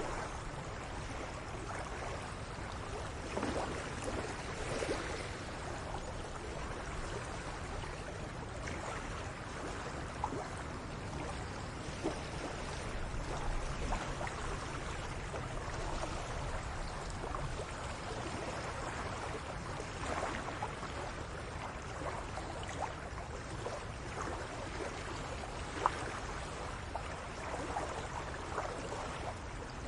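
Small waves lapping and trickling at the water's edge, with many little splashes over a steady low rumble.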